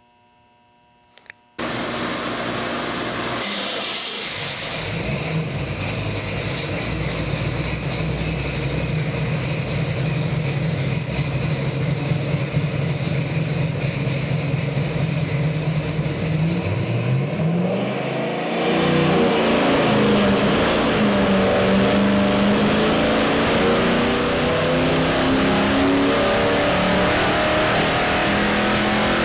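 383 cubic-inch Chevy small-block stroker crate engine comes in suddenly about a second and a half in and runs steadily at a fast idle. Around seventeen seconds in it revs up and holds at a higher, louder speed.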